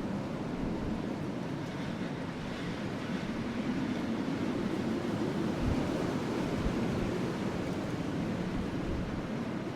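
Steady rushing wind, with a few soft low thumps along the way.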